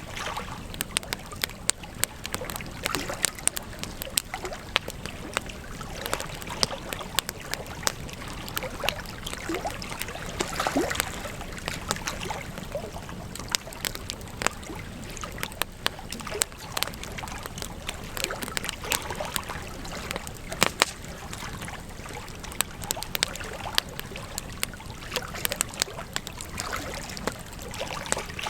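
Wood campfire crackling: a steady hiss of burning with frequent irregular sharp pops, a few of them louder, and a short rising squeal-like hiss about eleven seconds in.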